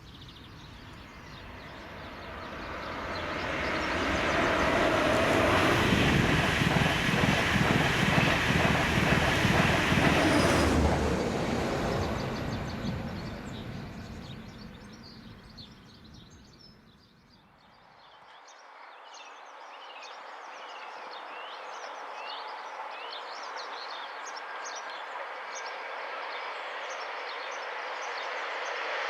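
A train passes at speed on a main line: the rumble and rail noise build over the first few seconds, are loudest from about four to eleven seconds in, and then fade away. Then birds chirp over a steady rush that slowly grows louder as another train approaches.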